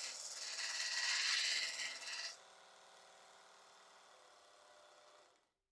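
Mini belt sander grinding a steel chisel, a loud, rough rasping hiss of metal on the abrasive belt. About two seconds in the chisel comes off the belt and the grinding stops, leaving the small motor running quietly, and near the end the motor is switched off and spins down to silence.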